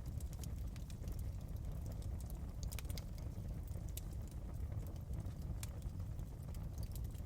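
Crackling fireplace: irregular sharp pops and snaps over a steady low rumble of the burning fire.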